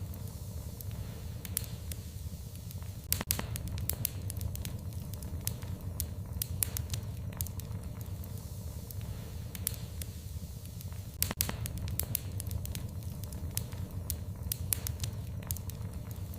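Fire in a fireplace crackling, with irregular sharp pops (two louder ones about 3 and 11 seconds in) over a steady low rumble of the flames.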